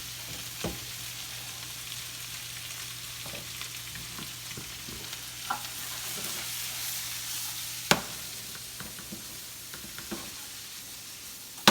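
Onions frying in a hot pan, a steady sizzle with the occasional scrape and knock of a utensil stirring them; the sharpest knock comes about eight seconds in.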